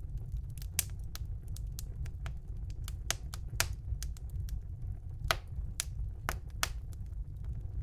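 Wood fire burning in a fireplace: irregular sharp crackles and pops, a few louder than the rest, over a steady low rumble of the flames.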